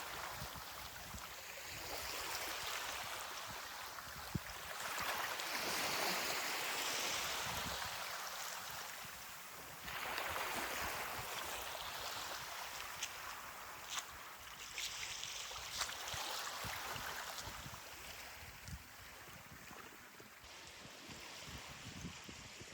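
Ocean surf on a beach: waves break and wash in as swelling rushes of noise every few seconds, the biggest about five seconds in and again about ten seconds in, then ebb away. A few faint sharp clicks and low wind rumble sit underneath.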